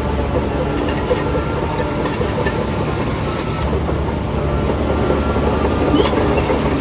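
Shantui DH17C3 crawler bulldozer's diesel engine running steadily under load, with the clatter of its steel tracks.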